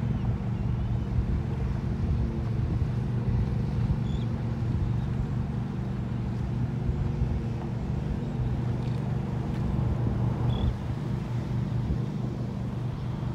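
Steady low drone of an engine running, an even hum that holds its pitch, over low rumble from wind on the microphone.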